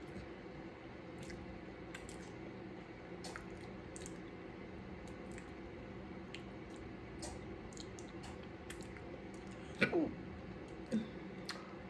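Close-miked eating sounds: wet chewing and mouth smacks with many small scattered clicks, over a steady low hum. Near the end come two short throat sounds with a bending pitch, about a second apart; the first is the louder.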